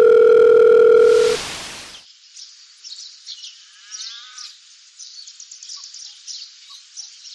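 A loud, steady electronic beep like a dial tone for about a second and a half, cut off by a short hiss of noise. Then quieter, high, rapid chirping, like insects or small birds.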